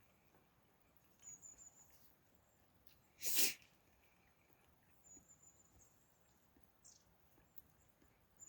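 A single short, sharp burst of breath noise about three seconds in, with faint high-pitched chirps now and then.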